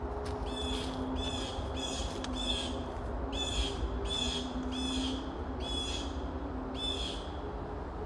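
A bird calling over and over, about ten short scratchy calls spaced roughly two-thirds of a second apart, over a steady low rumble of highway traffic.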